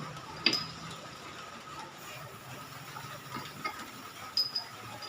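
A sharp click about half a second in, a few light ticks, and a brief ringing click near the end, over a faint steady hum.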